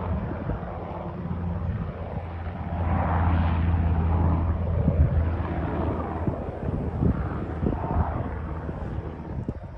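Coastguard helicopter flying past with a steady low rotor and engine hum, growing louder for a few seconds and then slowly fading. Short thumps of wind on the microphone come in over it in the second half.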